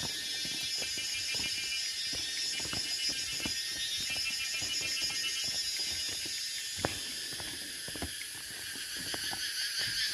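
Summer cicadas singing in a dense, steady, pulsing high-pitched chorus, with scattered soft footfalls underneath.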